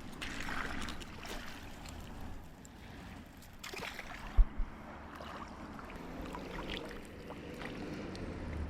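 Water lapping and splashing, with two dull low thumps about halfway through.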